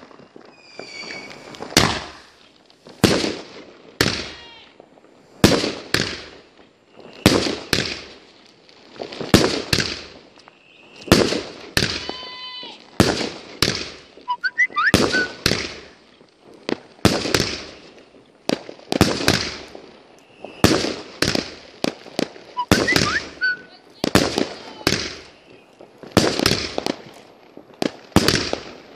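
Class 4 firework battery of 30 mm shells firing shot after shot, each shell going off with a bang about once a second. A few shots carry a brief whistling or crackling tone.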